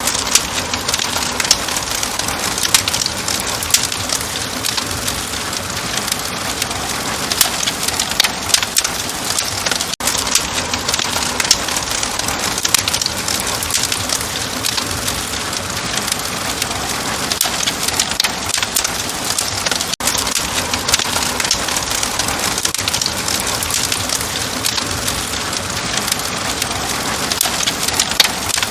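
Open wood fire crackling: dense, irregular pops and snaps over a steady hiss.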